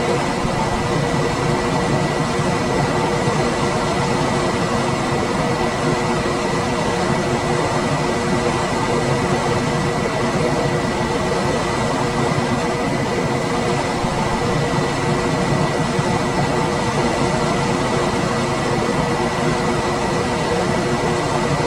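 Room air conditioner running steadily: an even rush of fan air with a steady low hum and a faint high whine.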